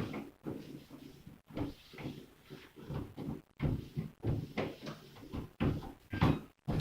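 Fridge shelves, drawers and plastic food containers being handled and moved about, giving a run of short, irregular knocks and bumps.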